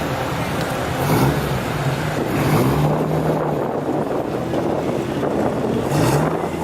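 Engines of passing cars and trucks running, their pitch rising and falling several times as they rev, over a steady rush of traffic noise.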